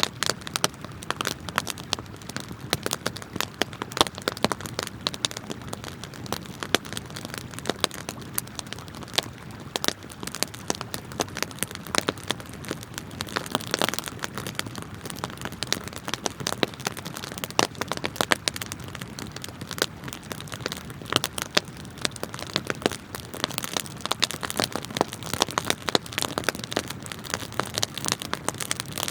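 Wood fire crackling with many sharp, irregular pops, over the steady rush of flowing river water.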